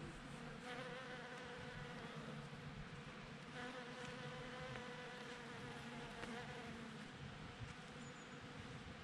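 Bees buzzing steadily at cherry blossoms: several overlapping hums that waver slightly in pitch.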